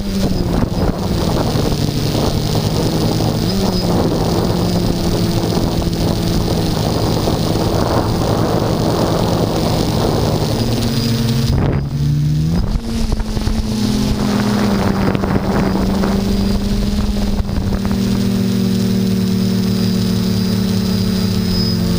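Quadcopter's electric motors and propellers running with a steady pitched hum that shifts up and down in pitch every few seconds as the throttle changes, under rough wind noise on the microphone.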